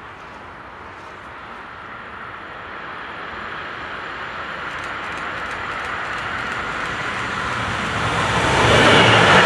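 A train approaching along the line, its running noise growing steadily louder and loudest near the end as it nears.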